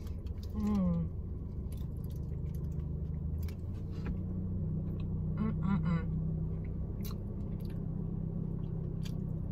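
A person chewing a mouthful of soft lamb shawarma wrap, with small wet mouth clicks throughout. A short hummed 'mm' comes about half a second in and again near six seconds.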